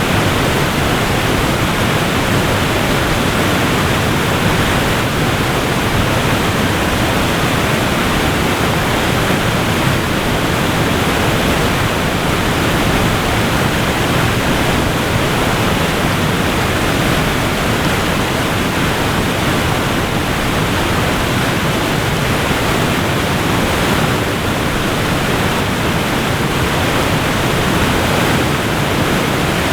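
Waterfall rushing in a steady, dense wash of falling-water noise, fuller in the lows and mids than in the highs, with no breaks or changes.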